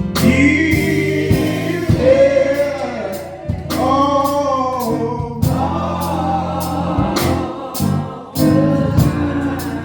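Gospel choir singing long, held notes over a live church band, with a steady bass line and regular drum hits.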